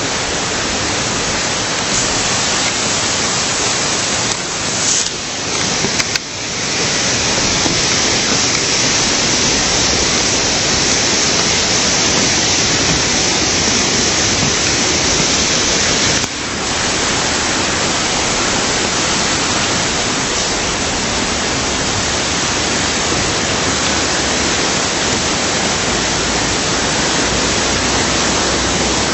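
Steady rush of falling water from a waterfall, close and loud, dipping briefly about five seconds in and again around sixteen seconds.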